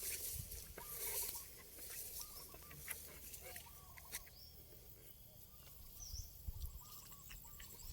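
Faint animal calls: many short chirping calls repeating throughout, with scattered clicks and a few low thumps near the end.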